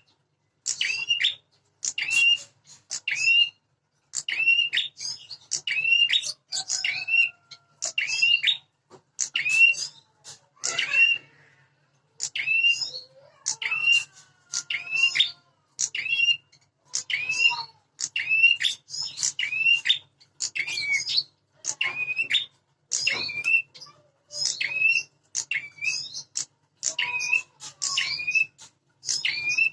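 Prinias (prenjak) giving a long, agitated run of short, sharp, high calls, about one to two a second without pause: territorial fighting calls between two prinias, used as a lure to rouse a caged bird.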